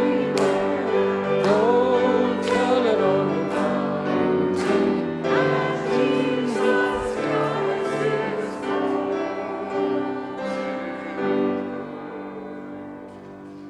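Choir singing a hymn with instrumental accompaniment, the last chord fading away near the end.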